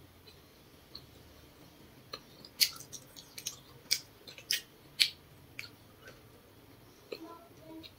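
A person chewing grilled potato cake close to the microphone, with a run of sharp, crisp mouth clicks in the middle.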